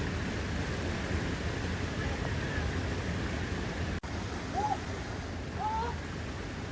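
Steady rush of a large waterfall's cascading water. It breaks off for an instant about four seconds in, and a couple of brief faint voice-like sounds come after the break.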